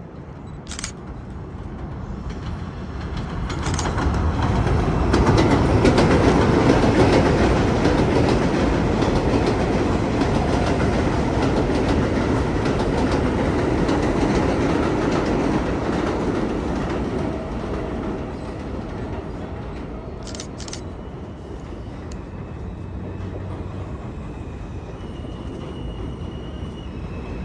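New York City subway train on the J/M elevated line. Its rumble and wheel clatter build over the first few seconds, stay loud through the middle, then ease to a lower steady running noise. A faint high tone comes in near the end.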